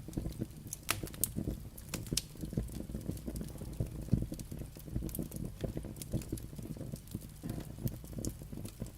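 Burning firewood crackling, with irregular sharp pops and snaps over a steady low rumble of flame.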